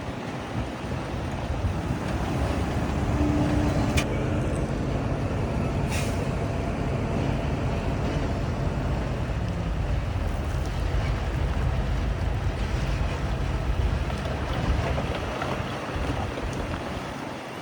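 Heavy diesel engine of earthmoving equipment running under load, swelling in the first few seconds, holding steady and easing off near the end. Two short sharp clicks come about four and six seconds in.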